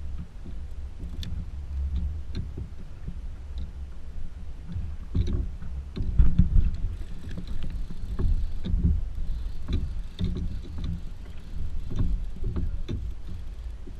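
Irregular knocks and thumps on a kayak, loudest around the middle, over a steady low rumble.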